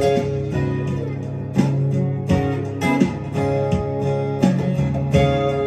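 Acoustic guitar strummed in a steady rhythm, playing an instrumental passage of a country-style song.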